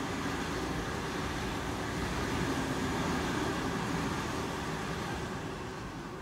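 Double-deck electric suburban train running past on the tracks: a steady rumble of wheels on rail with a low hum, fading as the last car goes by near the end.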